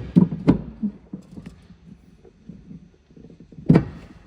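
Handling noise of an object being moved and set in place: a cluster of clicks and knocks at the start, a few lighter taps, then one loud knock near the end.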